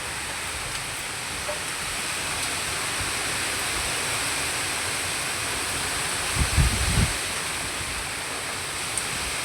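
Steady hiss of heavy cyclone rain and wind, with a brief cluster of low wind buffets on the microphone about six and a half seconds in.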